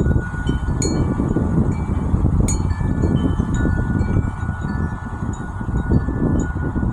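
Wind chime ringing in the breeze, its tubes struck about a second in and again about two and a half seconds in, several clear tones overlapping and ringing on. A steady low rumble of wind runs underneath.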